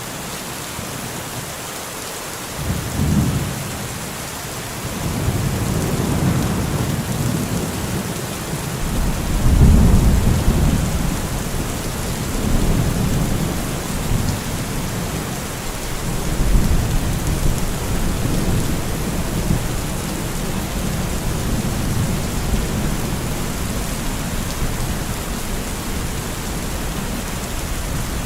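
Steady rain falling, with thunder rumbling low under it: a first rumble about two and a half seconds in, the loudest one around ten seconds, then rolling rumbles that fade back into the rain.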